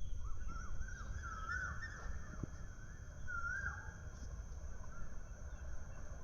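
Birds calling in short warbling chirps, a cluster about a second in and another a little past the middle, over a faint steady low rumble.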